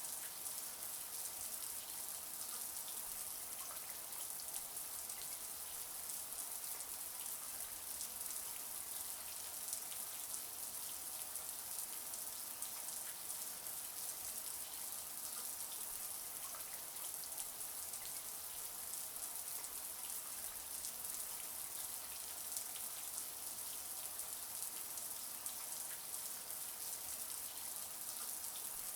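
Shower running steadily: an even hiss of falling spray, brightest in the high range, dotted with fine droplet ticks throughout.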